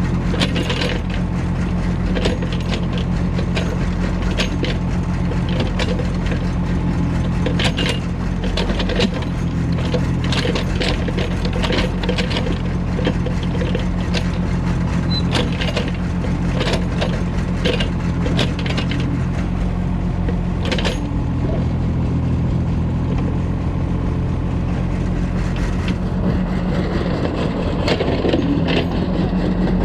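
A diesel excavator digging and loading soil onto a truck: a steady engine drone with many sharp knocks and clatters of earth and stones, which thin out after about twenty seconds.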